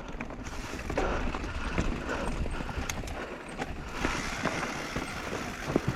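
Mountain bike rolling down a rough dirt trail: steady tyre and rush noise with frequent irregular sharp knocks and rattles as the bike goes over bumps.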